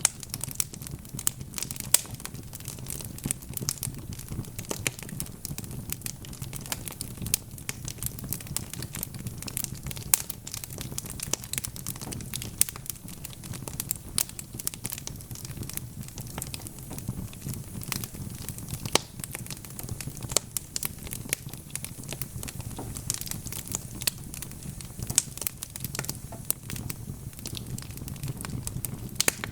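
Wood fire crackling: dense, irregular sharp pops and snaps over a low, steady rumble of the flames.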